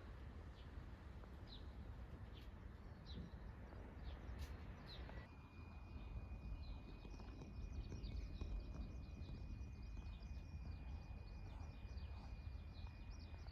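Outdoor background noise with a steady low rumble and small birds chirping. About five seconds in, a steady high-pitched tone starts and holds, while the chirping becomes busier.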